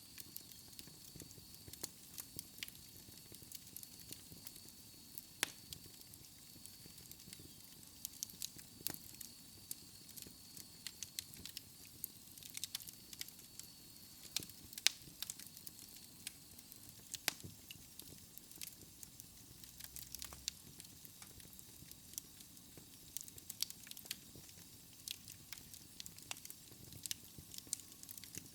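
Wood fire burning in a fireplace: logs crackling with many irregular sharp pops and snaps over a soft hiss. A faint thin high tone runs through roughly the first half.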